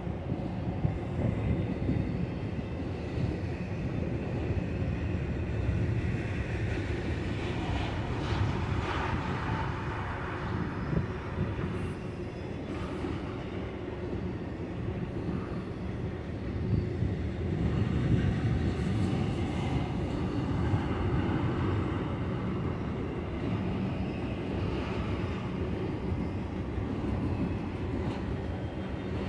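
BNSF double-stack intermodal freight train rolling past: a steady low rumble of steel wheels on rail with the rattle of the well cars.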